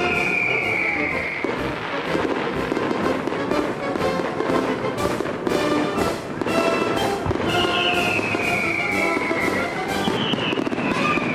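Fireworks display: aerial shells bursting and crackling, with music playing underneath.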